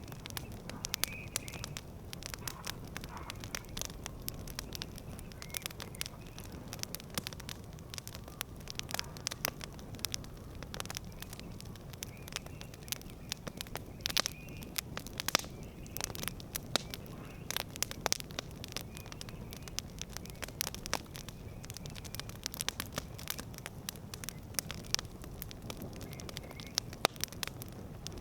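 Campfire burning, with frequent irregular sharp crackles and pops over a steady low rumble of flames.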